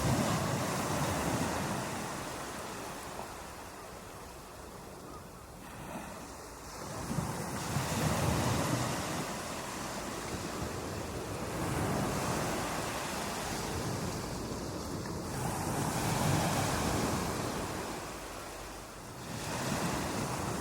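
Ocean waves breaking on a beach, one surge after another every four to five seconds, each rising in a rush of surf and then fading.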